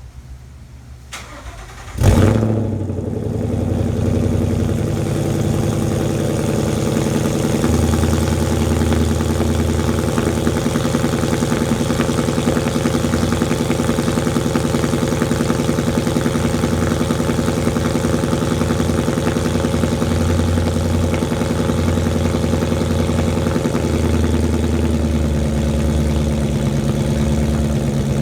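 2014 Ford Mustang GT's 5.0 Coyote V8, with a Corsa Extreme axle-back and off-road H-pipe exhaust, cold-starting: it fires about two seconds in with a sharp, loud flare, then settles into a steady idle.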